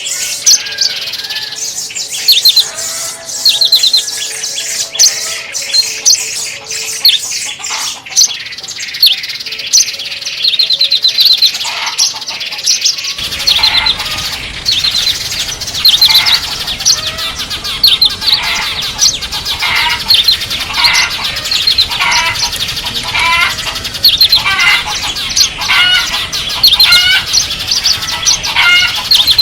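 Small songbirds chirping and twittering in quick runs of high, short notes. About a third of the way through, the recording switches abruptly to another bird-call track with a different background, where the notes come in repeated phrases roughly once a second.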